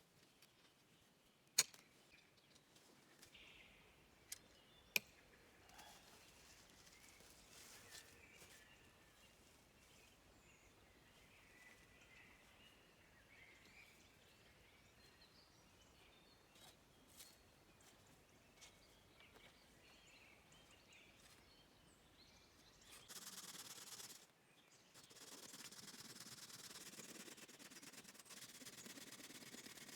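Near silence with a few sharp clicks in the first five seconds, faint high chirps, and a steady hiss in the last several seconds.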